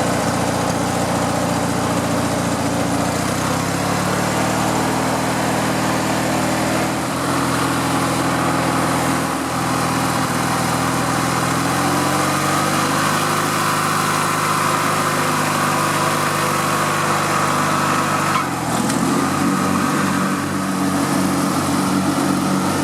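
Riding lawn mower engine running on a test run after fuel and electrical repairs. Its pitch rises around four seconds in and again around twelve seconds in, then near the end it drops to a lower idle with a regular pulsing beat.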